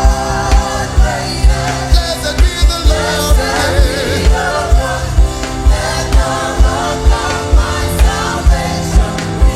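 Gospel worship music: a group of voices singing over a band, with a heavy bass drum beating about two to three times a second.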